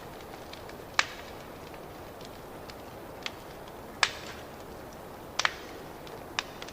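Wood fire crackling in a fireplace: a steady low hiss broken by sharp pops, the loudest about a second in and about four seconds in, with a quick double pop a little past five seconds.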